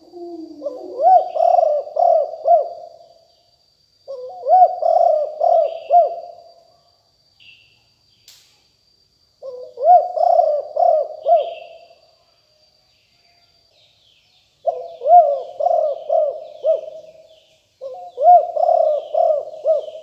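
Spotted dove cooing: five phrases of several rolling notes, each phrase a couple of seconds long with pauses between. A thin steady high tone runs underneath until about two-thirds of the way through, and small birds chirp faintly, more often near the end.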